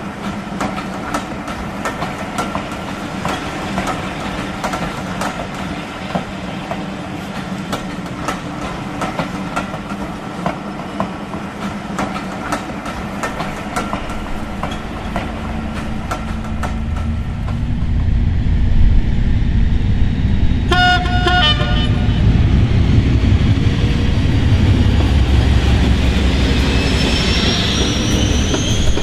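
Model diesel locomotives with sound running on a model railway: steady engine drone with rapid wheel clicks over the rail joints, then the engine grows louder and deeper about two-thirds through. A short horn blast sounds soon after, and a rising whine builds near the end.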